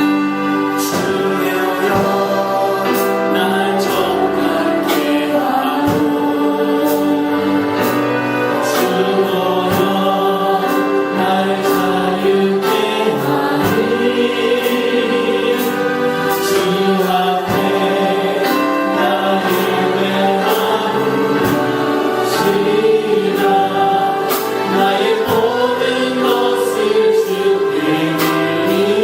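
A choir singing a Christian worship song over instrumental accompaniment with a steady beat.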